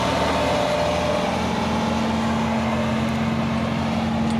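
Tractor diesel engine running hard under heavy load, pulling a loaded trolley through loose sand. Its note shifts about a second and a half in.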